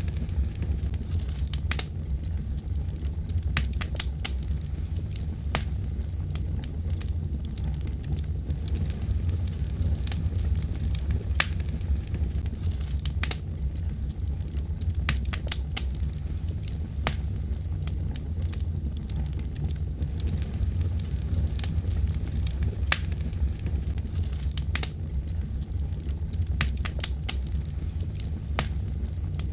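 Wood fire burning steadily: a low rumble of flames with irregular sharp crackles and pops throughout.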